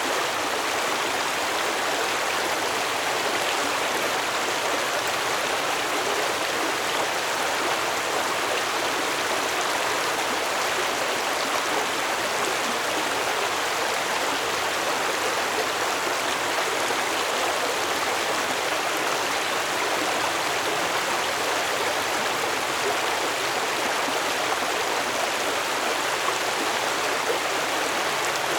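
Stream water flowing steadily over rocks, an even rushing and babbling.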